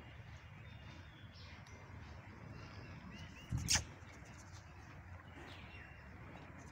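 Faint open-air farmyard ambience with scattered bird chirps, and one short, sharp thump about three and a half seconds in.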